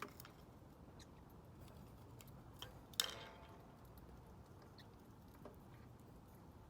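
Parrotlet's beak working a yucca chew toy: scattered faint clicks and nibbles, with a sharp knock about three seconds in that rings briefly.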